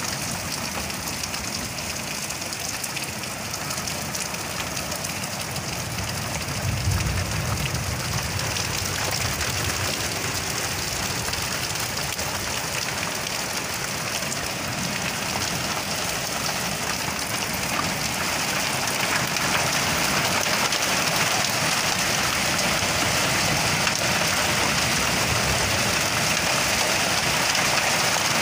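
Heavy storm rain with hail falling steadily, growing louder about two-thirds of the way through. A brief low rumble about seven seconds in.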